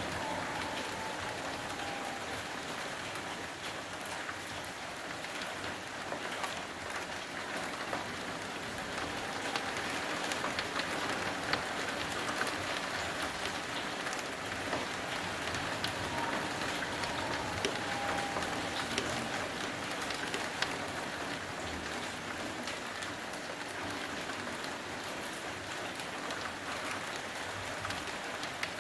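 Steady rain falling on the street and buildings: an even hiss with many scattered drops ticking close by.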